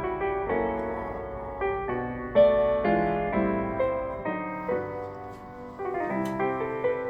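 Piano music: single notes and chords struck one after another, each ringing and fading.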